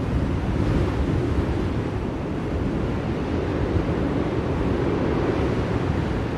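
Blizzard wind blowing steadily, an even rushing noise with no breaks, heaviest in the low range.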